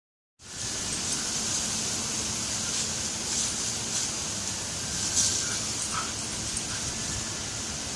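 Borzoi playing with a fallen branch in dry leaves under wind: a steady rustling hiss that begins abruptly, with a few faint snaps and short squeaky sounds scattered through it.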